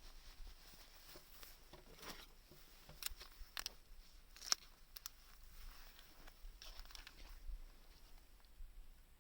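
Small wood fire crackling in a homemade can secondary-combustion stove: sparse pops and crackles with brief hissing flare-ups, a cluster around three seconds in and one sharp pop at about four and a half seconds.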